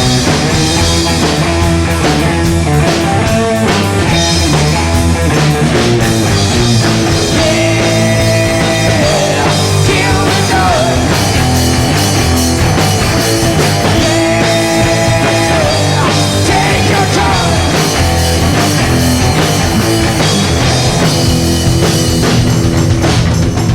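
A rock band playing live: electric guitar and drum kit, loud and steady, with long held notes twice in the middle.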